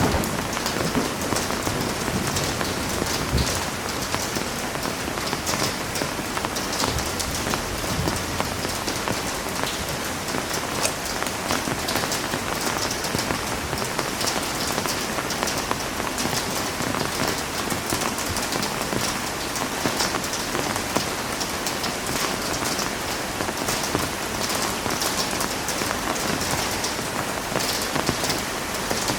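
Heavy rain falling steadily, a dense even hiss with many fine drop ticks on hard surfaces.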